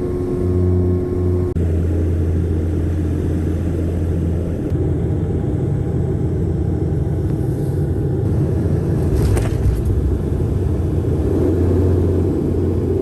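Steady low rumble and droning hum of a running vehicle.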